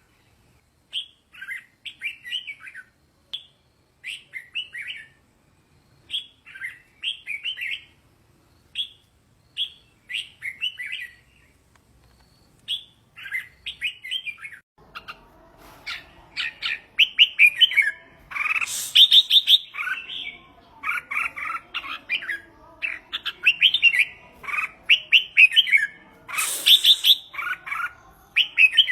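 Red-whiskered bulbul singing short, warbled phrases about once a second. About halfway through, the song grows louder and more continuous over a faint background hum, with two brief crackles.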